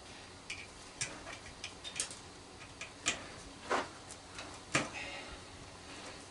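Torx wrench working a stubborn screw on a microwave magnetron: about ten irregular, sharp metal clicks as the bit jumps out of the screw head.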